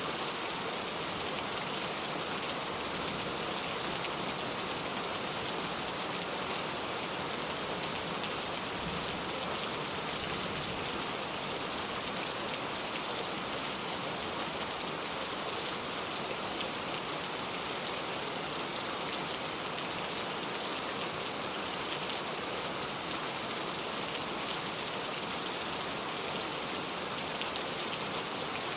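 Heavy pouring rain: a steady, dense hiss of rain with fine patter of drops hitting surfaces.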